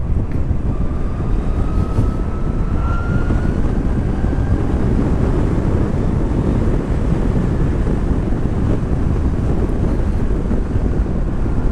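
Wind and road noise rushing over the microphone while riding a Zero SR/F electric motorcycle at speed, with a faint rising whine from the electric drive over the first few seconds.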